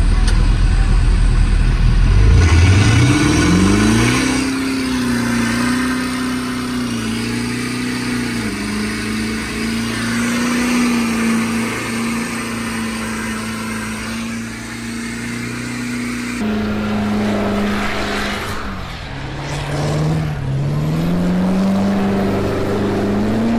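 Pickup truck engine during a burnout: a heavy low rumble, then about two seconds in the revs climb and are held high and steady. The revs drop back about sixteen seconds in, dip further near twenty seconds, and climb again near the end.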